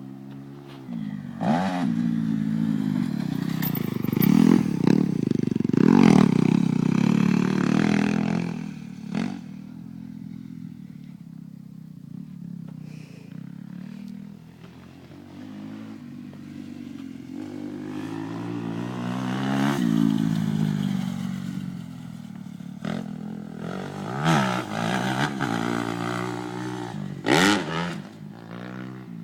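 Motocross bike engine revving up and down with the throttle as it is ridden. It is loud for the first several seconds, eases off, then rises again around twenty seconds in and near the end, with a few sharp knocks along the way.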